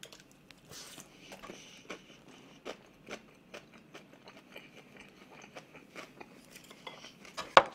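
Close-miked chewing of a mouthful of tuna gimbap (seaweed-wrapped rice roll), heard as many small soft clicks and smacks, with one louder click near the end.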